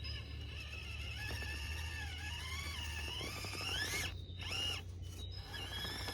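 Electric motor and gears of a 1/18-scale FMS FCX18 RC rock crawler whining as it crawls, the pitch wandering with the throttle and rising steeply about four seconds in, then stopping and starting in short bursts near the end.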